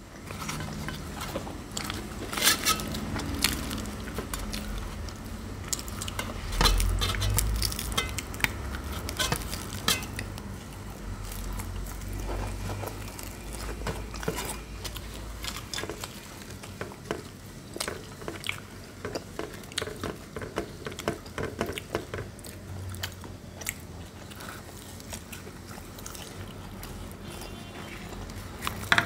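Close-up chewing and biting of crispy fried puris with curry, with irregular crackles and clicks as the puris are torn by hand and fingers touch the steel plates. A low rumble runs for several seconds in the first half.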